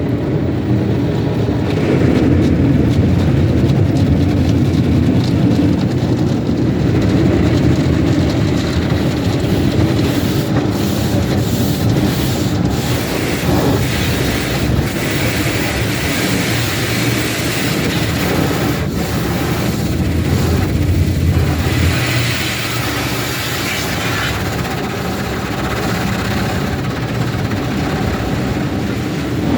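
Automatic car wash heard from inside the car: a loud, steady rumble of water and machinery against the body. About two-thirds of the way through, the deep rumble fades and a brighter hiss takes over.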